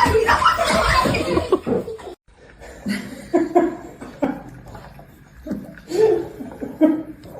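People laughing, first continuously and then in short separate bursts after a brief dropout about two seconds in.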